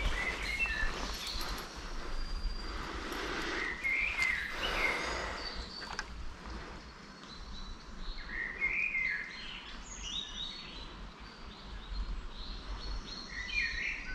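Songbirds singing in short warbling phrases, several times, over a steady rumbling background of outdoor noise.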